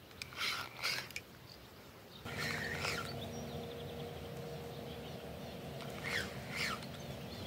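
Small birds chirping briefly, several short calls spaced over a few seconds, over a steady faint low background noise that comes in about two seconds in.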